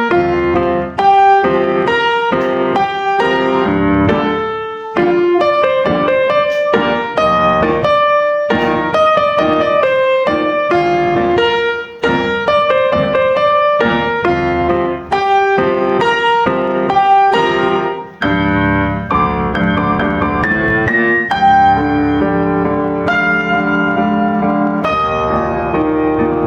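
Background piano music: a flowing run of quick notes with a steady pulse.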